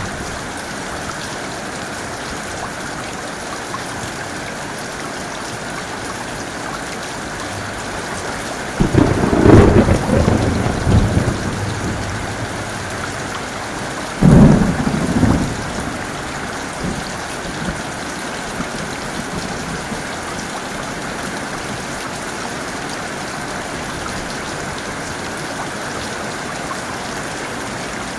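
Heavy rain falling steadily, with two loud claps of thunder: a long rolling one about a third of the way in and a shorter, sharper one about half way through.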